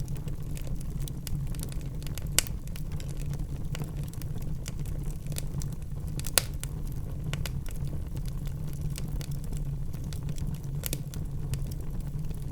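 Wood fire burning in a fireplace: a steady low rumble with scattered crackles and a few sharper pops, the loudest about two and a half and six and a half seconds in.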